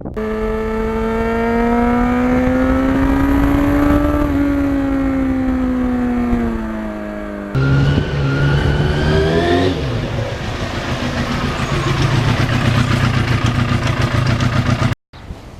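1991 Yamaha FZR motorcycle's inline-four engine running on the road. Its pitch rises slowly and then eases off. After a cut it revs up and settles to a steady, lower pitch, then stops abruptly near the end.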